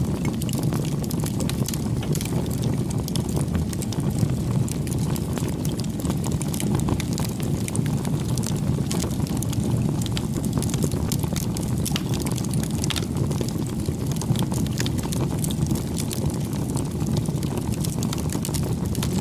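Wood fire burning: a steady low rush of flames with frequent sharp crackles and pops.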